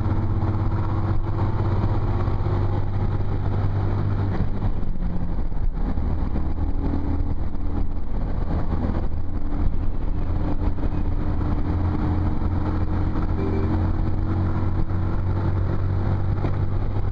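Motorcycle engine running steadily under the rider, its low drone easing off for a moment about five seconds in and then picking up again, with wind noise rushing over the microphone.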